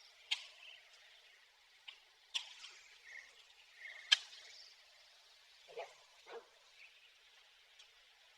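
Scattered sharp clicks and light knocks of small parts and tools being handled, the loudest about four seconds in, over a faint steady hiss.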